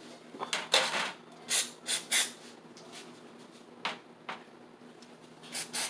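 Aerosol carburetor cleaner sprayed in short spurts onto the parts of a 1970 Honda Trail 70 carburetor: about nine brief hisses, irregularly spaced, over a faint steady hum.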